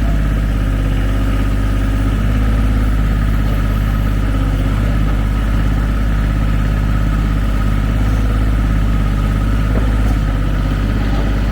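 Ford 1520 tractor's three-cylinder diesel engine running steadily while the backhoe digs, its tone shifting a little now and then as the hydraulics take load.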